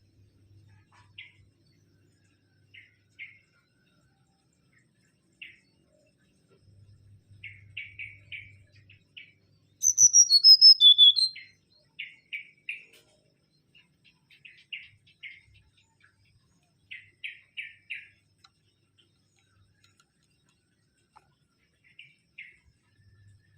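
Mangrove whistler singing: a loud, falling run of clear whistled notes about ten seconds in, with short chirps repeated on and off throughout.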